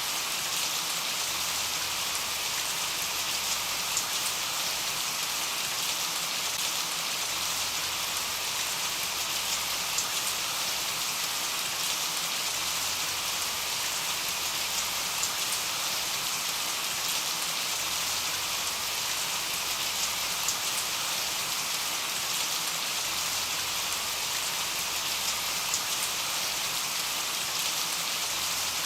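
Steady rain: an even, unbroken hiss with faint individual drop ticks scattered through it.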